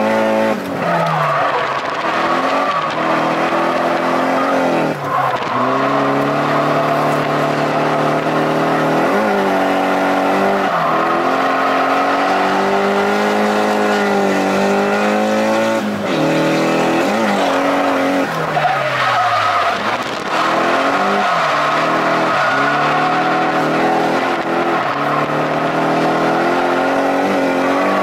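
Nissan 180SX engine revving up and dropping back again and again through a drift run, heard from inside the cabin, with the tyres skidding and squealing as the car slides.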